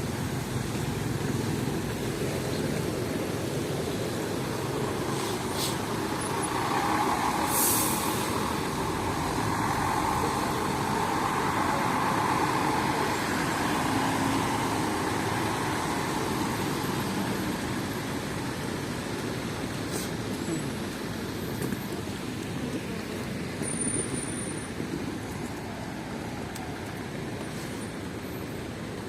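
Street traffic on a rain-wet city road. A heavy vehicle passes, loudest from about 6 to 15 seconds in, with a short hiss about 7 seconds in.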